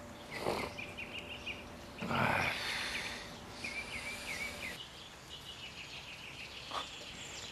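Small birds chirping in short repeated phrases, with two brief noisy bursts about half a second and two seconds in, the second the loudest.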